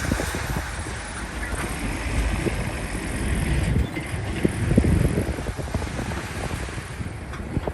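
Heavy earthmoving machine's diesel engine running, with short irregular knocks and wind buffeting the microphone.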